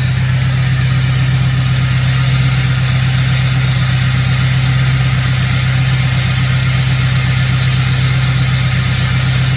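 Ford 6.0 Powerstroke turbodiesel V8 idling steadily through a 4-inch straight pipe on a cold start at about twenty below, the engine still cold and not yet on high idle.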